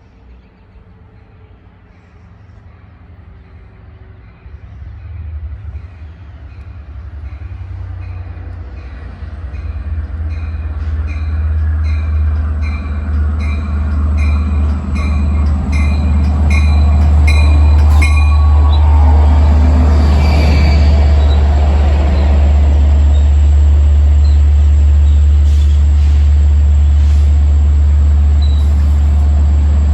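Long Island Rail Road diesel-hauled passenger train approaching and drawing alongside, its engine's low drone growing from faint to very loud and then holding steady. A regular dinging of about two a second runs through the approach, and there is a burst of wheel and rail noise as the train comes close.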